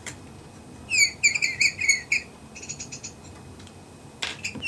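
Electronic chirping bird ornament playing its synthetic bird call through its small speaker: a phrase of quick, high, falling chirps about a second in, then a softer short trill, with a sharp click near the end. The light-triggered circuit is chirping again with its battery contacts cleaned of corrosion.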